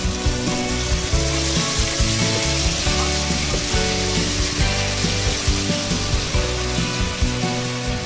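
Ground chili-and-shallot spice paste sizzling in hot oil in an aluminium pot as it is stirred with a spoon, at the sautéing stage before liquid goes in. Background music with a regular beat plays over it.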